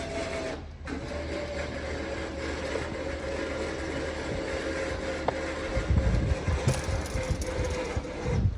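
Electric winch motor whining steadily under load as it pulls a stump, stopping for a moment just under a second in and then running on at a slightly lower pitch. Heavy low thumps join in over the last couple of seconds.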